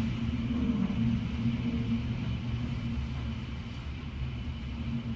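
Hurricane-force wind making a steady low rumble that eases a little about three seconds in.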